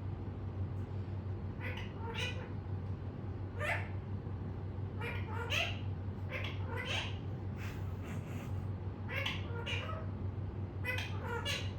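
Pet parrot giving about a dozen short squawking calls, each falling in pitch, some single and some in quick runs of two or three, over a steady low hum.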